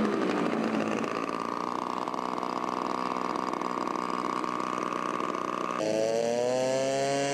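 Engine of a radio-controlled scale model airplane running. Its pitch drops at the start and holds steady, then changes abruptly about six seconds in and slowly rises.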